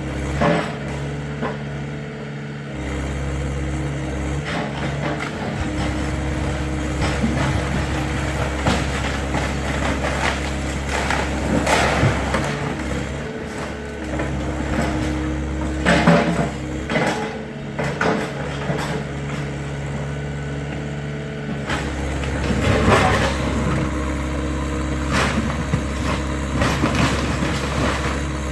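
Excavator engine running steadily with hydraulics working as it tears down a wooden garage, broken by several cracks and crashes of breaking wood, the loudest about halfway through.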